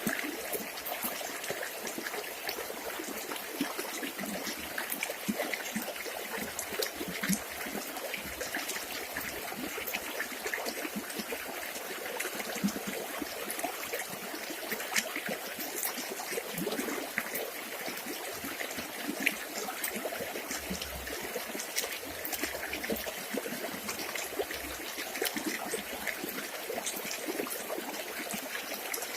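River water running steadily, an even rush dotted with many small splashes.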